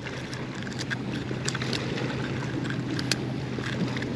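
Steady wash of water and wind, with a few faint clicks scattered through it and a low steady hum underneath.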